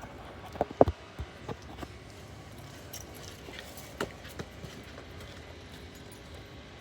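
A few light knocks and clicks, several in the first second and a half and a couple more about four seconds in, over a faint steady hiss. No engine is heard running.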